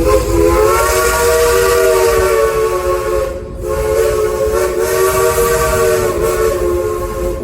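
Steam locomotive's whistle blowing two long blasts, several notes sounding together as a chord, with a short break about halfway through and a hiss of steam under it.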